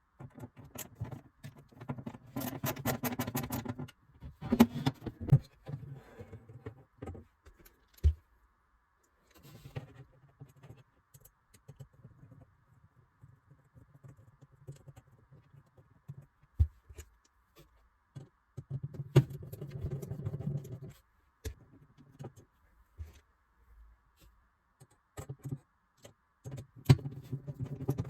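A metal ball-bearing drawer runner being handled and screwed onto the side of a drawer: bursts of rapid metallic clicking and rattling, a few sharp knocks, and short stretches of low grinding as screws are driven in.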